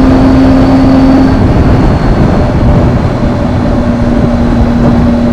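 Triumph motorcycle engine running at a steady pitch while riding, over a loud constant rush of wind and road noise. The engine note fades about one and a half seconds in and comes back about a second later.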